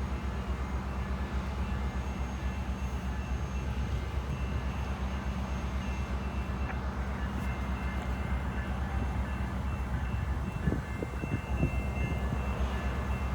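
Holiday train's diesel engines running steadily: a continuous low rumble with an even hum and a faint high whine over it. A few low knocks come near the end.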